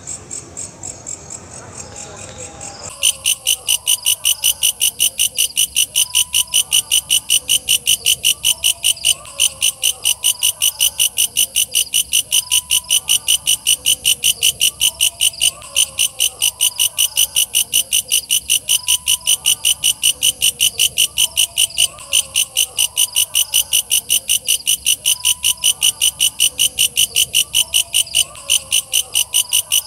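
Walang kecek katydid calling: a loud, fast, steady run of dry, high chirps, about three a second, that starts about three seconds in, with fainter lower wavering calls beneath.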